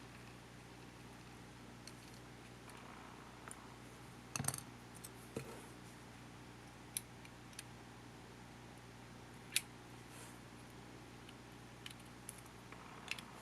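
Scattered small clicks and taps of tools and small camcorder parts being handled during disassembly, a little cluster about four seconds in and sharp single ones after, over a steady low hum.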